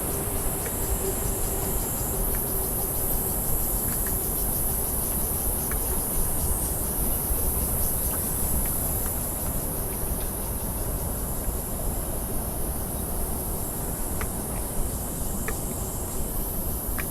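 A steady, high-pitched chorus of insects chirring, over a constant low rumble.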